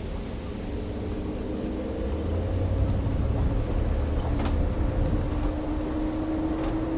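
2020 Ram 1500 Rebel pickup driving slowly on a rough dirt mountain trail: a steady engine hum whose pitch creeps up near the end, over a low tyre and road rumble, with two light clicks.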